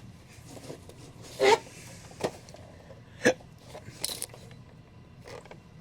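Cardboard Funko Pop boxes being handled and pulled from a shipping box: a few light knocks and scrapes over a low background, the loudest about a second and a half in.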